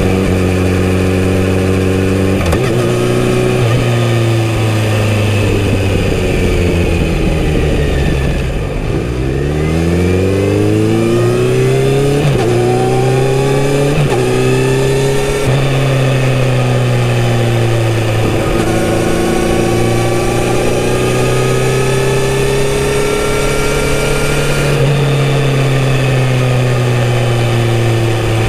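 Kawasaki Z900RS inline-four engine running through a full-system exhaust while riding. It holds steady at first, eases off about eight seconds in, then accelerates with the pitch climbing through two gear changes. After that it cruises with the pitch slowly rising and falling.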